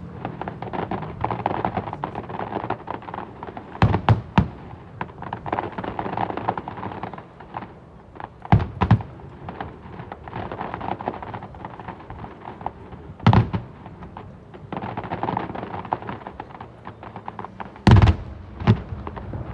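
Fireworks display: loud booms of shells bursting every four to five seconds, often two close together, with a steady wash of noise between them.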